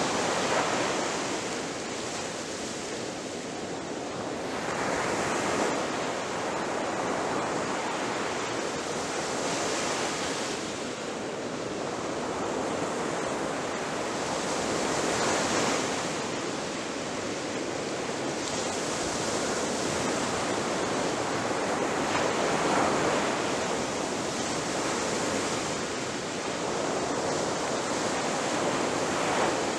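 Ocean waves breaking on a shore, a steady wash of surf that swells and recedes every few seconds.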